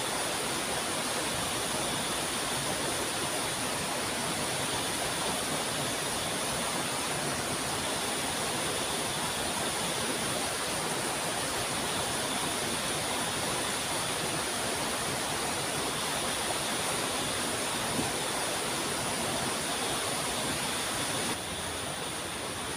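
Steady rush of falling water from a waterfall, with a thin, steady high-pitched tone over it. It drops slightly in level near the end.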